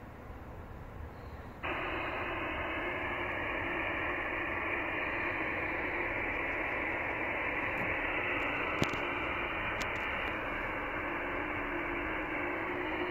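HF transceiver's receiver audio: steady 15-metre band hiss heard through a narrow passband that cuts off sharply at the top, switching on abruptly about one and a half seconds in. A brief click comes near the middle.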